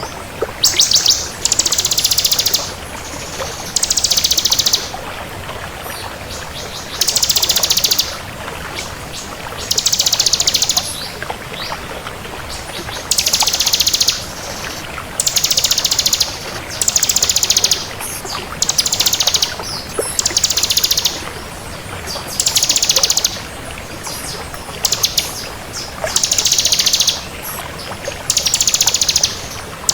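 Bar-winged prinia (ciblek kristal) singing: short, very fast, high-pitched trills about a second long, repeated every two seconds or so, over a steady background hiss.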